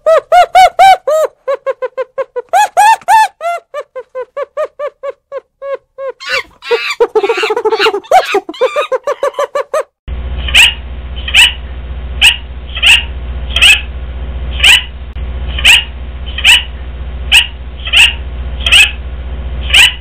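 For the first half, a fast series of short pitched calls, each rising and falling in pitch. About halfway it changes to a rainbow lorikeet screeching, one sharp shrill call roughly every second over a steady low hum.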